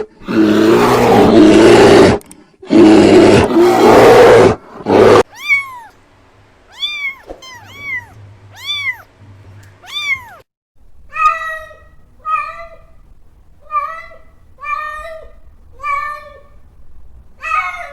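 A run of animal calls: three loud, rough roars in the first five seconds, then about six rising-and-falling cat-like meows, then a string of about eight shorter, lower calls roughly one a second.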